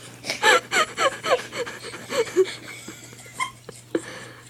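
A person laughing and gasping in a quick run of short cries, each falling in pitch, for the first two or three seconds, then softer breaths and a couple of small clicks.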